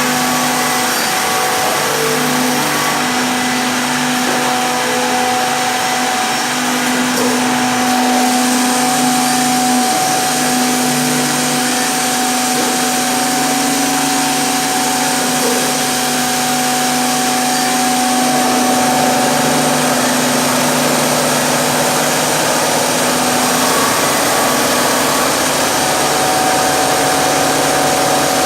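Ten-head CNC mortising machine for woodworking running: a steady motor hum and whine over a broad hiss, the tones shifting slightly a few times as it works.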